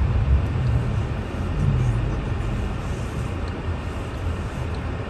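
Car running, heard from inside the cabin: a steady low engine and road rumble with tyre noise, easing off slowly as the car slows.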